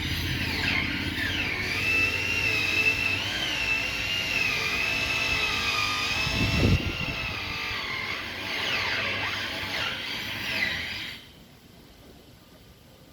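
A small engine whining at a high pitch that wavers and sweeps up and down, as in revving, then stops abruptly near the end.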